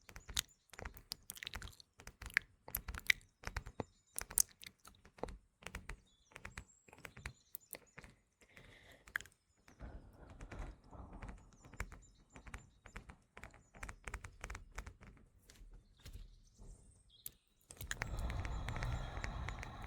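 Close-miked ASMR mouth sounds, a dense run of wet clicks, mixed with tapping on a phone, over faint morning birdsong chirping in the background. A louder rush of noise sets in near the end.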